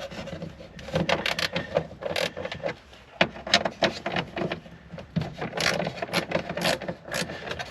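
Irregular clicks and knocks of a hand tool undoing the fixings of a car tail light unit, with metal and plastic parts being handled.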